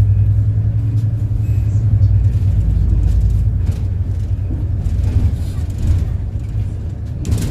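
City bus running on the road, heard from inside: a steady low engine and road rumble, with a short burst of noise near the end.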